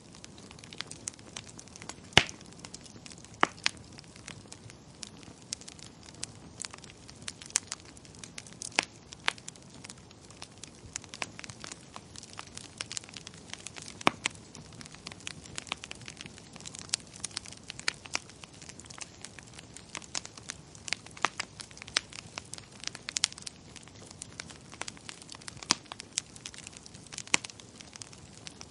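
Wood fire crackling in a fireplace: irregular sharp pops and snaps over a soft hiss, with one louder pop about two seconds in.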